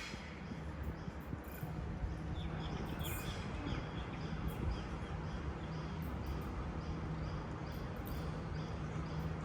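Outdoor ambience: a bird chirping over and over in short, high calls above a steady low hum.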